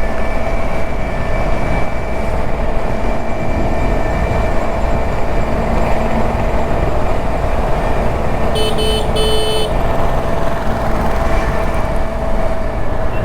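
Steady road and wind noise from a Honda Activa scooter riding through city traffic. A vehicle horn honks twice in quick succession about nine seconds in.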